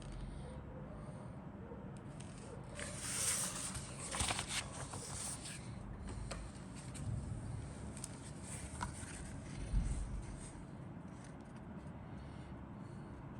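Model kit packaging and parts being handled: irregular crinkling and rustling with light clicks, busiest a few seconds in.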